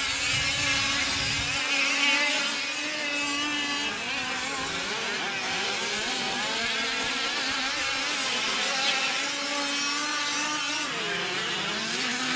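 Several 1/5-scale off-road RC race trucks' small two-stroke gas engines buzzing at once, their pitches rising and falling as they throttle on and off around the track.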